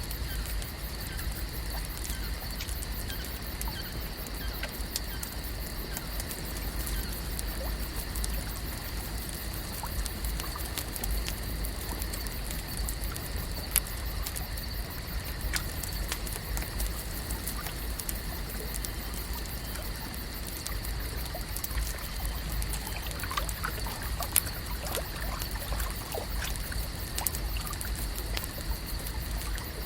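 Lake ambience: water trickling and lapping at the shore over a steady low rumble, with a faint constant high drone and many small scattered clicks.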